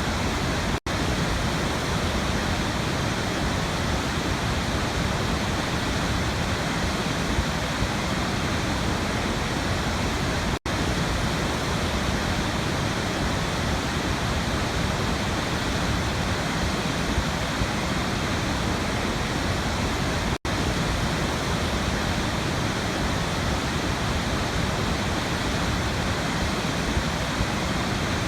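Waterfall: a steady rush of falling water, broken three times by a split-second dropout, about ten seconds apart.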